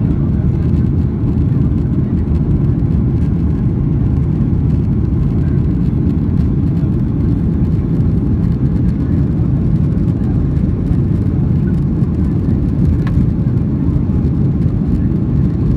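Jet airliner cabin noise heard from inside the passenger cabin: a steady, loud low rumble that holds an even level, with no clear rise or fall.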